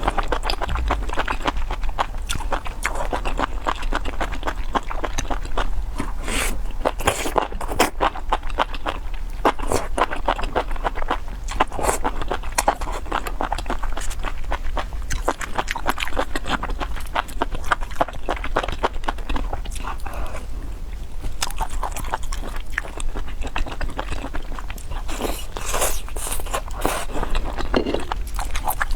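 Close-miked mouth sounds of eating: steady wet chewing and biting with many small crunches and clicks, and a few louder bites along the way.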